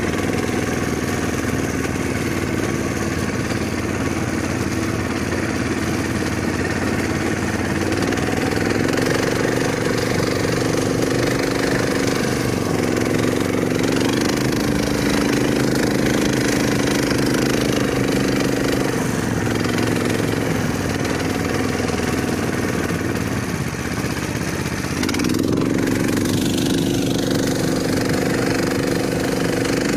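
A vehicle engine running steadily, its pitch rising and falling a few times as the throttle changes, with a short dip about three-quarters of the way through.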